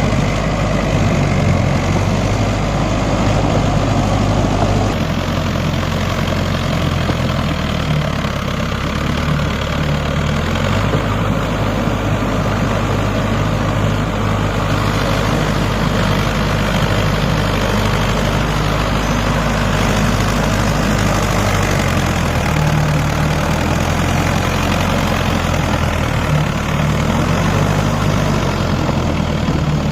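Mahindra 555 tractor's diesel engine running steadily and loud, its engine note shifting slightly a few times.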